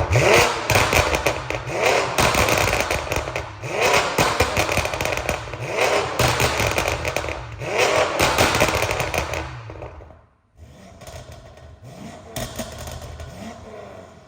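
BMW F90 M5's twin-turbo V8 through an FI valved exhaust, giving repeated bursts of rapid popping and crackling, the 'popcorn' overrun sound, about every two seconds. About ten seconds in it drops quieter, with a few scattered pops.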